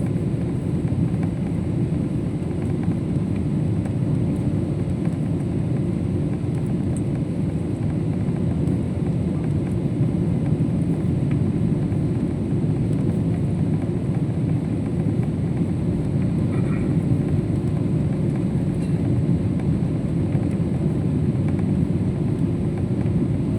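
Steady low rumble of airliner cabin noise inside a Boeing 777, the engines and rushing air heard through the fuselage.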